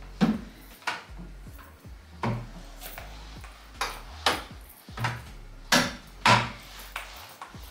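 A series of sharp knocks and clatters, about one a second, as household items are picked up and set down, with faint background music underneath.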